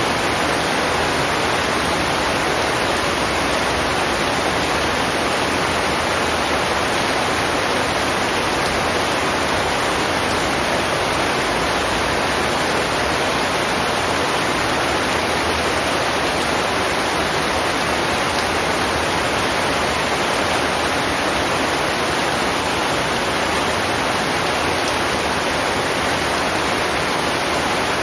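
Heavy rain falling steadily, a dense even hiss with no separate drops standing out.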